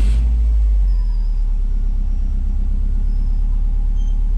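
Bugeye Subaru Impreza WRX's turbocharged flat-four running steadily, heard from inside the cabin, with a deep low rumble, having just started on a newly fitted Deatschwerks 200 fuel pump. It is a little louder for the first second, then settles to an even level.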